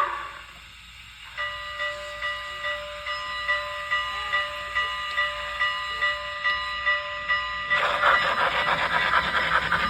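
Sound system of an MTH RailKing O gauge Challenger model steam locomotive: a whistle blast dies away, then the bell rings steadily, about two to three strokes a second, for about six seconds. Near the end a loud hiss of steam takes over.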